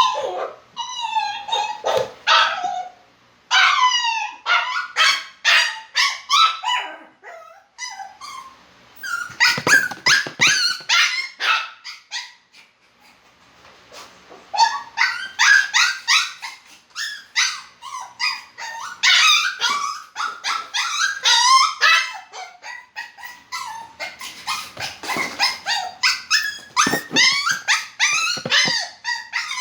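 A poodle yipping and whimpering in a rapid string of short, high-pitched cries, with a brief lull about halfway through.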